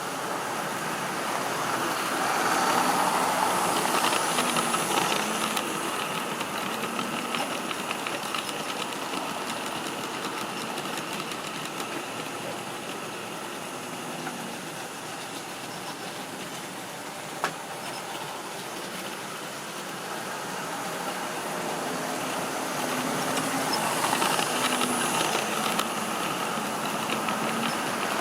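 Model train running round a layout: the steady whirr of the locomotive's motor and the rolling of wheels on track. It grows louder twice as the train comes close and fades in between, with a single sharp click about two-thirds of the way through.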